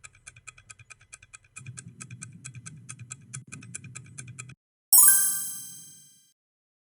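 Quiz countdown-timer sound effect: rapid even ticking, about five ticks a second, with a low rumbling bed joining partway through. The ticking stops and a bright chime rings and fades, marking the end of the answer time.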